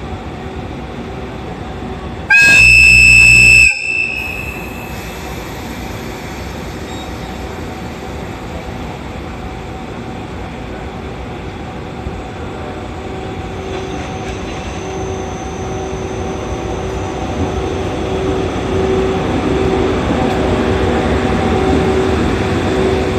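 EF81 electric locomotive sounding one strong, very loud air-horn blast a couple of seconds in, lasting about a second and a half. After it comes a steady locomotive hum and running noise that grows louder in the second half as the train pulls away.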